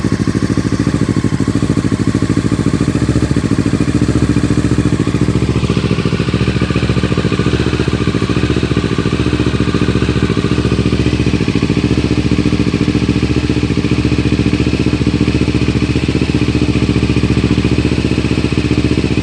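2018 Kawasaki Ninja 650 parallel-twin engine idling steadily through a Yoshimura R77 full exhaust, its headers freshly wrapped in thermal wrap.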